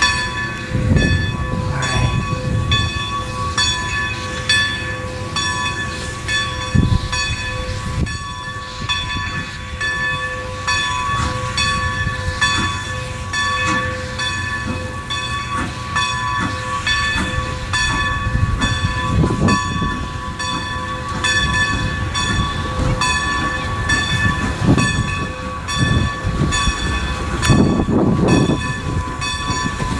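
Railroad train running on the track: a rhythmic clacking several times a second over a low rumble, with a steady high-pitched whine held throughout.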